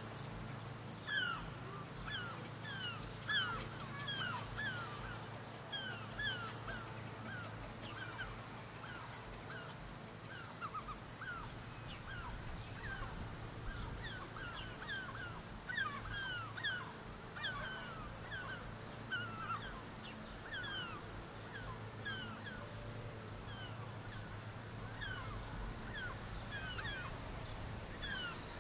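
Birds calling over and over, short sharp calls following each other several times a second, over a faint low steady hum.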